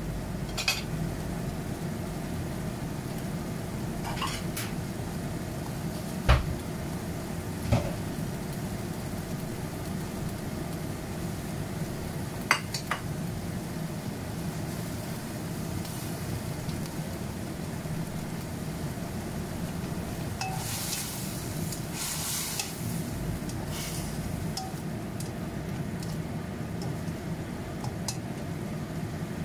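Okra frying in a nonstick wok over a gas burner: a steady hiss of sizzling and burner. A few sharp clinks of a utensil against the pan are scattered through, and a louder spell of hissing comes about two-thirds of the way in.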